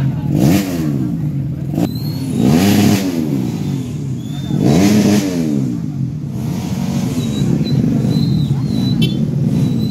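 Several motorcycle engines revving, their pitch repeatedly rising and falling and overlapping, with the loudest swells about half a second, three seconds and five seconds in.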